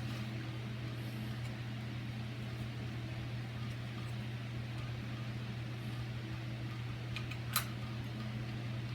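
A steady low hum throughout, with a single sharp click of deadbolt hardware being handled about seven and a half seconds in and a few fainter ticks just before it.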